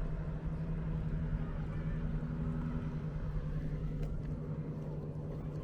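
An engine running at a steady, unchanging pitch, a constant low drone.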